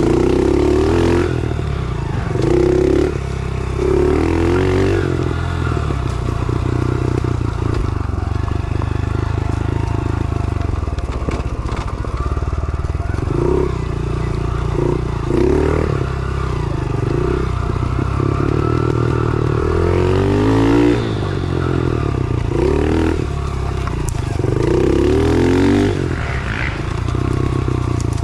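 110cc pit bike's small single-cylinder four-stroke engine running under load, the revs climbing and dropping again and again as it is ridden.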